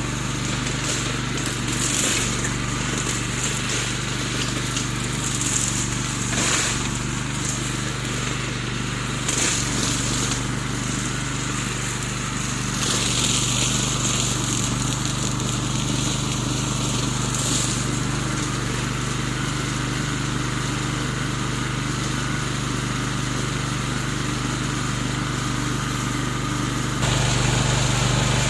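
Remote-controlled lawn mower's engine running steadily, with bursts of crackling cutting noise now and then. It gets louder about a second before the end.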